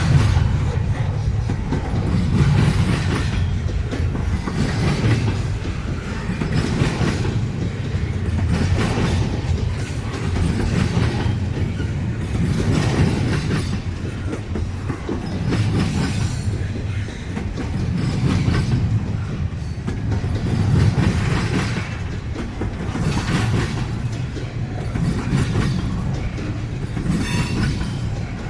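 Train cars rolling past over jointed rail, with a steady low rumble and a clickety-clack of wheel clatter that comes back roughly every two seconds as each car's wheels pass.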